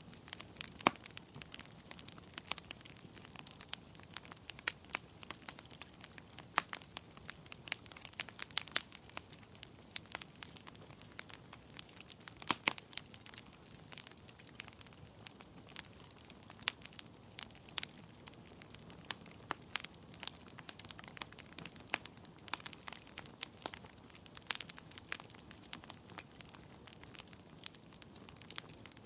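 Wood fire crackling in a fireplace: burning logs give off irregular sharp snaps and pops over a faint hiss. A few louder pops stand out, one about a second in and another near the middle.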